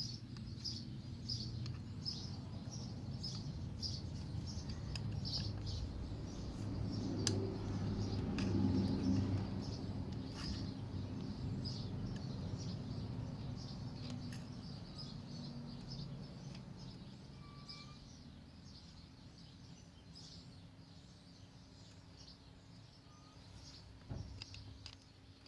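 A bird chirping over and over, a few short high chirps a second, fading later on. Under it a low rumble swells about eight seconds in and then dies away, with a few faint clicks.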